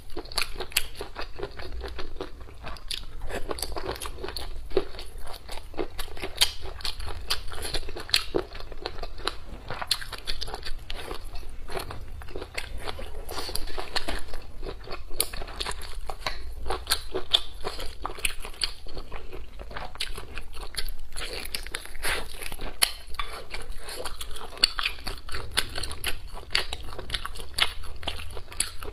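A person eating close to a clip-on microphone: continuous chewing and biting, full of sharp mouth clicks.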